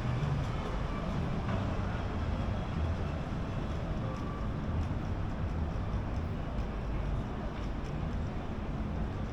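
City street ambience: a steady low rumble of passing road traffic with a general urban hum.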